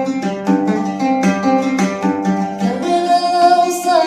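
Instrumental music: a plucked string instrument picks a quick, even run of notes, and a long held note with a slight waver comes in about three seconds in.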